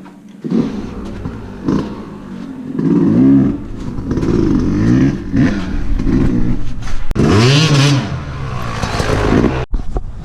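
Two-stroke dirt bike engine revving up and down, its pitch rising and falling in repeated swoops, with a long rise and fall late on; it cuts off abruptly near the end.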